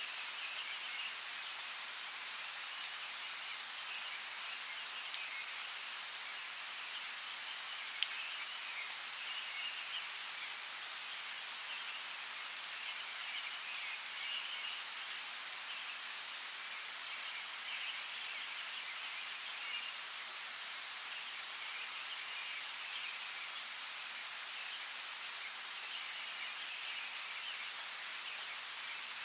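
Steady rain falling, with a few sharper single drop hits. Birds chirp in recurring patches over the rain.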